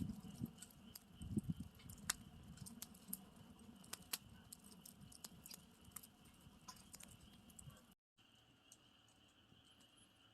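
Faint wood campfire crackling: scattered sharp pops and snaps over a low steady rumble of the fire. The sound drops out for a moment about eight seconds in, and the pops are sparser after that.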